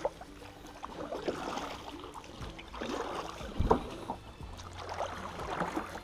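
Kayak paddle strokes swishing and splashing through water in irregular pulls, with one sharp knock about three and a half seconds in.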